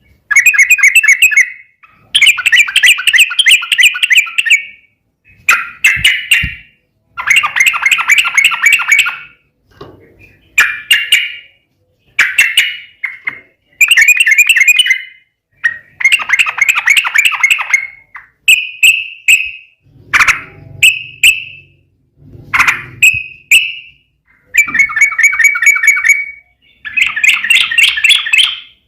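Yellow-vented bulbul (trucukan) singing loudly in its fast, continuous fighting style: burst after burst of rapid chattering notes, each burst lasting up to a couple of seconds, with short pauses between them.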